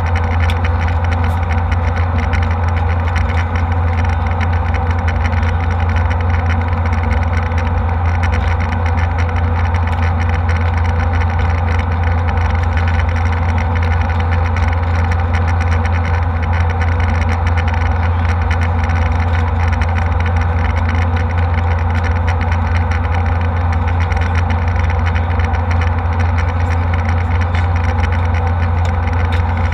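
Steady drone of a jet airliner heard from inside the cabin in flight: engine and airflow noise, loud and unchanging, with a strong low hum.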